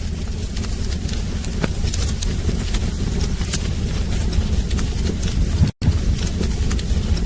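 Wood fire burning in a fireplace: scattered sharp crackles and pops over a steady low rumble. The sound drops out for an instant near the end.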